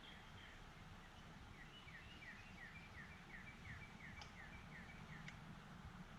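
A faint bird song: a rapid series of short downward-slurred notes, about three a second, starting about one and a half seconds in and stopping about a second before the end, over a low steady rumble. Two faint ticks come near the end of the song.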